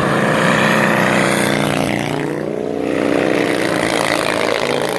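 Two 1920s Harley-Davidson board-track racing motorcycles, direct-drive with no gearbox, running hard around the track. Their engine note drops in pitch and fades about two seconds in, then builds again as they come back round.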